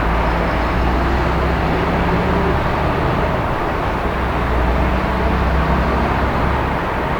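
Steady city traffic noise: a continuous rumble and hiss of passing vehicles with a low hum underneath and no distinct single events.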